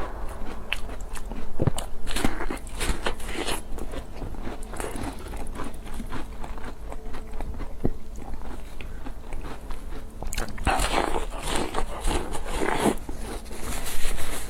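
Close-miked eating sounds: a person biting and chewing crunchy food, with frequent sharp crunches. The crunching comes in denser, louder bursts about two to three seconds in and again around eleven to thirteen seconds in.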